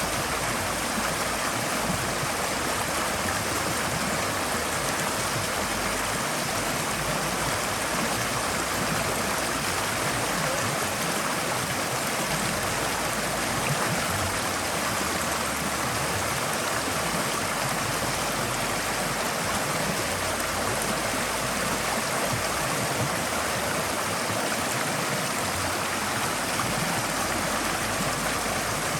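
Forest stream flowing steadily, a continuous rush and babble of water over stones.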